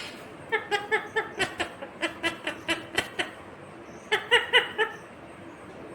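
Indian ringneck parrot giving quick runs of short, evenly repeated calls, about five a second: a long run, then a shorter one about four seconds in.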